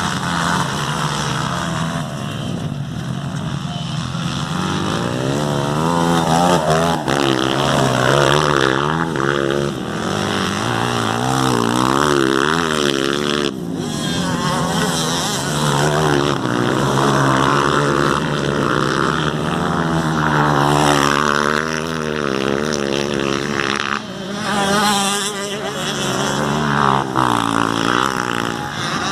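Motocross bikes racing on a dirt track, their engines revving up and down over and over as the riders work the throttle through the course.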